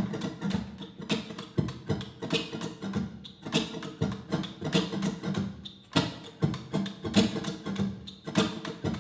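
A percussive beat laid down on a live looping rig: a steady repeating pattern of sharp hits over a low pitched thump, the first rhythm layer of a loop.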